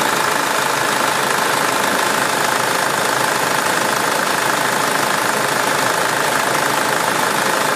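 SsangYong Kyron engine idling steadily on fresh oil just after an oil and filter change.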